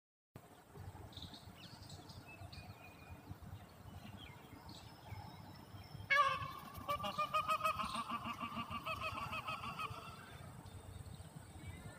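A bird's loud pitched call, a fast run of pulses lasting about four seconds, starting about six seconds in, with a few faint high chirps before it.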